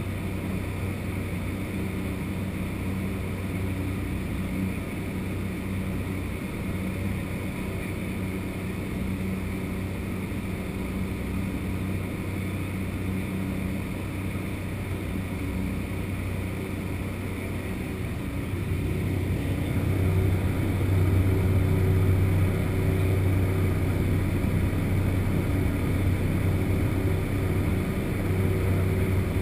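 Cessna 208 Caravan's single PT6A turboprop engine and propeller, a steady drone heard from inside the cockpit, growing louder about two-thirds of the way through as power comes up.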